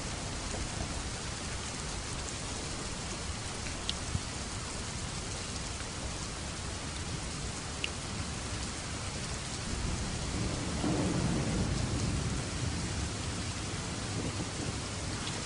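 Steady rain falling, with a low roll of distant thunder swelling about ten seconds in and fading after a few seconds. A few light drip ticks stand out briefly.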